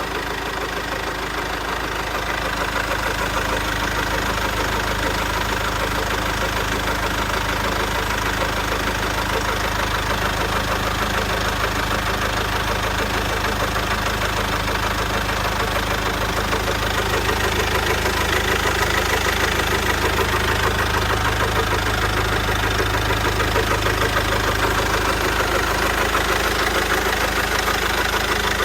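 Aged 2002 common-rail (CRDi) diesel engine with about 350,000 km on it, idling steadily. It gets a little louder about two-thirds of the way through.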